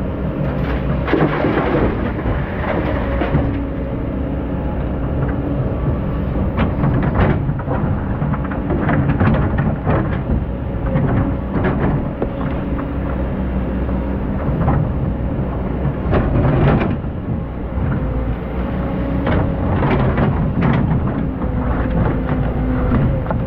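Excavator diesel engine running steadily under load, with frequent knocks, clanks and rattles from the bucket working in sand and gravel.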